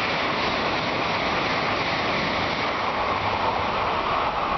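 Tokaido Shinkansen train passing through the station at speed: a steady rushing roar with no tones in it.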